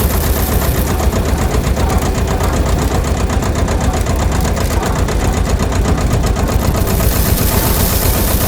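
A small motor-driven machine running steadily, with a low rumble and a rapid, even rattle.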